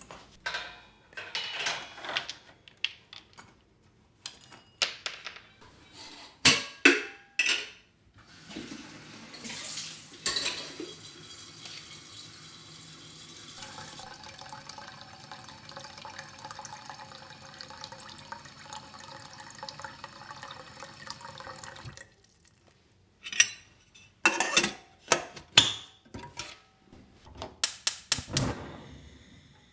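Dishes and utensils clinking and knocking in a kitchen sink, then a tap running steadily for about fourteen seconds before it is shut off abruptly, then more clinks of dishes.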